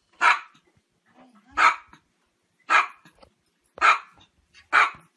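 A small dog barking: five short barks, about one a second.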